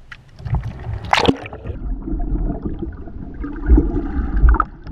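Sea water splashing and sloshing close around a kayak, with one sharp splash about a second in and a steady low rumble underneath.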